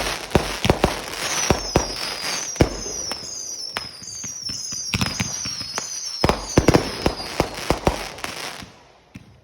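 Fireworks going off: a rapid string of sharp bangs and crackles, with a run of high whistles that each fall in pitch through the middle. It dies away near the end.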